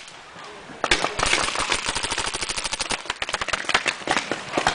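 Paintball markers firing rapidly. After a short lull, a dense stream of overlapping shots begins about a second in and keeps going.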